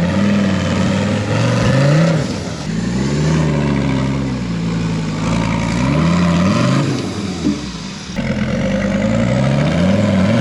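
Rock-crawling truck's engine revving up and down over and over in throttle bursts as it works up a rock climb, easing off briefly about eight seconds in before revving again.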